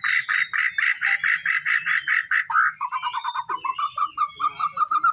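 White-rumped shama (murai batu) singing a long run of fast repeated notes, about seven a second, that drops to a lower-pitched series just under three seconds in and begins climbing in pitch near the end.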